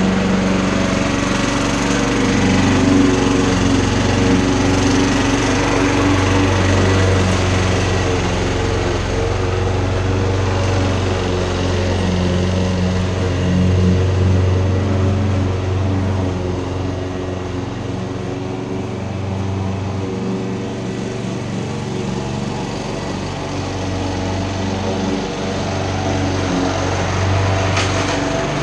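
Lawn mower's small petrol engine running steadily just after a cold start, its loudness dipping slightly for a few seconds past the middle.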